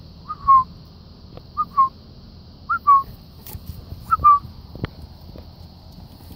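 A bird calling four times, each call a short two-note phrase, rising then falling, about a second apart.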